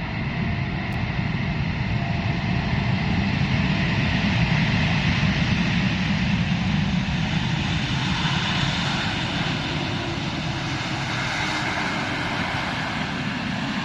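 Airliner passing on its landing approach, its engine noise swelling to a peak about four to five seconds in and then slowly fading.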